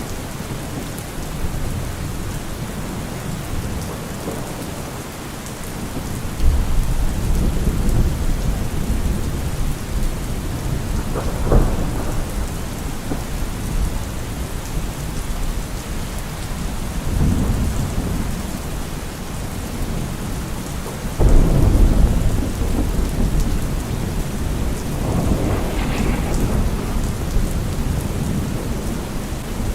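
Heavy rain drumming steadily on a car roof, with several rolls of thunder. A sharp crack comes about 11 seconds in, and the loudest, deepest rumble breaks about two-thirds of the way through.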